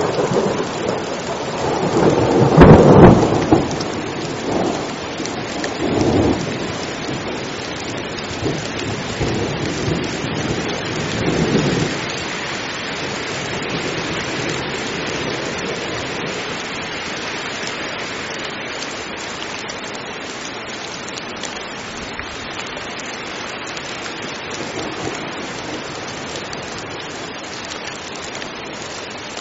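Heavy rain falling steadily with rolling thunder: the rumbles are loudest about three seconds in and die away by about twelve seconds, leaving only the even hiss of the rain.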